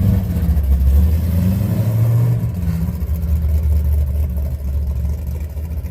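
Car engine running at low pitch, rising slightly in the first couple of seconds and then fading gradually as it moves off.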